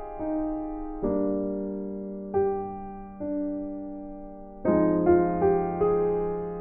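Background music: soft piano playing slow notes and chords, each struck and left to fade.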